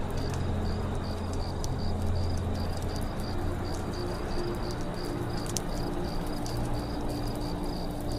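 Campfire crackling steadily with scattered sharp pops, over a cricket-like insect chirping in a fast, even rhythm.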